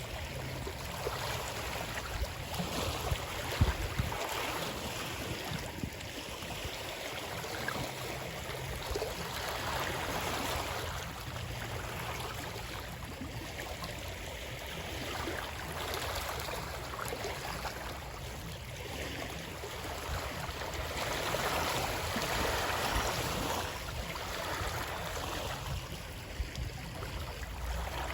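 Running water, a continuous rush that swells and eases every few seconds, with a single sharp knock a few seconds in.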